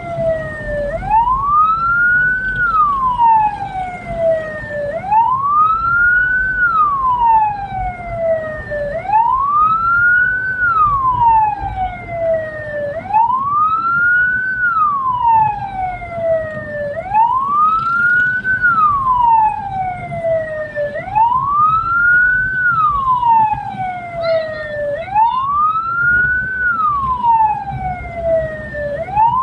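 Hearse's electronic siren wailing, each cycle rising quickly and falling slowly, about one every four seconds, over a steady rumble of the moving vehicle.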